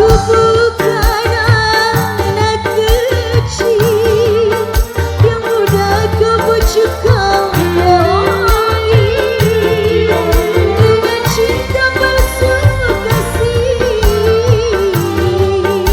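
Live dangdut band playing an instrumental interlude: a wavering melodic lead over a steady hand-drum and bass beat.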